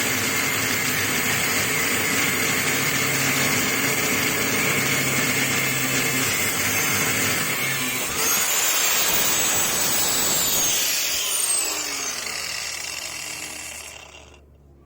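Angle grinder grinding a metal motorcycle exhaust hanger with a steady loud whine. About eight seconds in the pitch jumps higher as the disc comes off the work. It is then switched off and winds down with a falling whine that fades out near the end.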